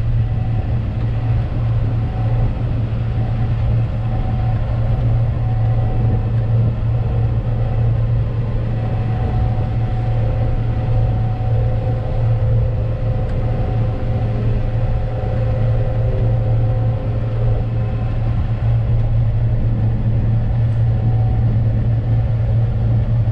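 An engine running steadily at constant speed, a low, even drone.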